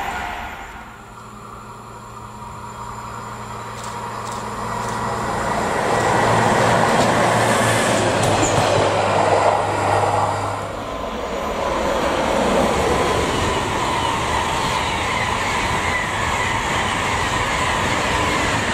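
Electric trains passing on the line: a train grows louder with a steady low hum, and about eleven seconds in the sound changes to the steady rush of a passing ICE high-speed train.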